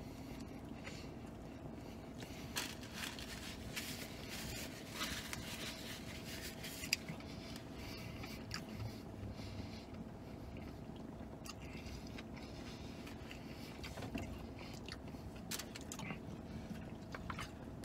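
A man chewing a mouthful of bacon cheeseburger on a pretzel bun close to the microphone, with irregular wet smacks and clicks of the mouth. A faint steady hum runs underneath.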